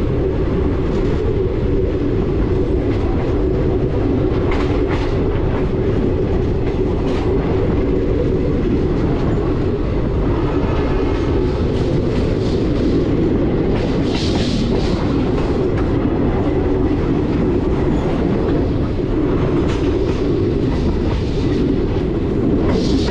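Passenger train running along the line, heard from on board: a steady rumble with wheels clicking over rail joints. A brief hiss rises about 14 seconds in and again near the end.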